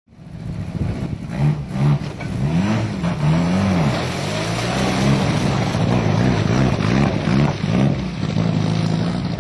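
Mitsubishi Lancer Evolution IX rally car's turbocharged four-cylinder engine revving up and down repeatedly, its pitch rising and falling many times before holding steadier near the end.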